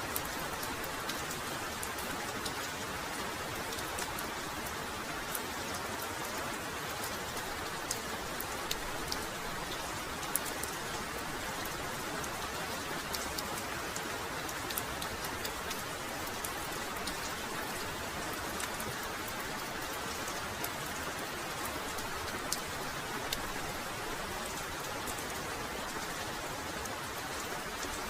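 Heavy rain falling steadily, with frequent sharp ticks of single drops striking close by.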